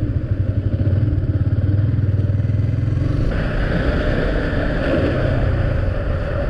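Motorcycle engine running while riding, with a fast low pulsing. About three seconds in, the engine note eases and a steady rushing noise of wind and tyres comes up.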